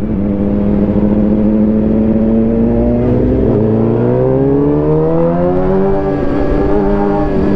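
Suzuki GSX-R750 inline-four engine running at steady low revs, then revving up smoothly about halfway through and holding the higher note.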